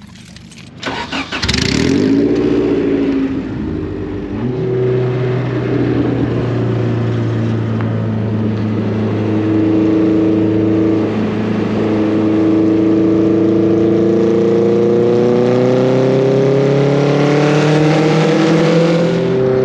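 A car engine is started with a short rise and fall in pitch, then runs steadily; from about halfway in, its pitch climbs slowly as the car gets under way. A few clicks come just before the start.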